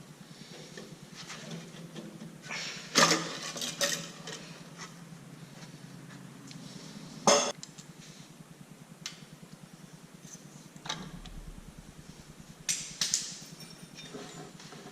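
Metal hand tools clinking and knocking on tractor parts, with scattered light clinks and three louder knocks: about three seconds in, past seven seconds, and near the end.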